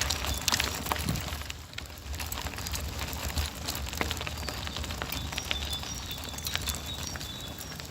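Bicycle ride recorded on a handlebar-mounted phone: a steady low rumble of wind and riding on the microphone, with frequent sharp clicks and rattles from the bike and phone mount as it jolts. Short high chirps of birds sound now and then.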